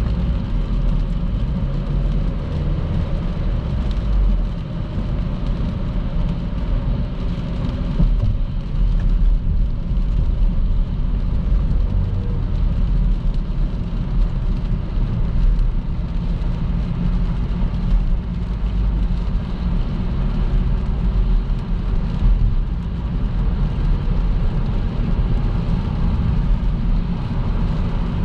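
A car driving at motorway speed on a wet road: a steady low rumble of engine, tyres and road noise, with a hiss of tyre and wind noise above it.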